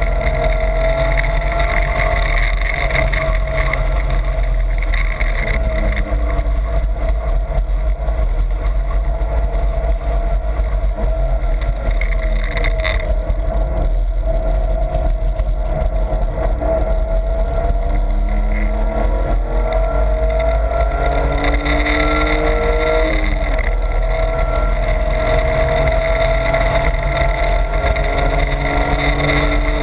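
BMW's engine heard from inside the cabin under hard driving, its pitch climbing through the revs and dropping at each gear change, several times, over steady road and wind noise.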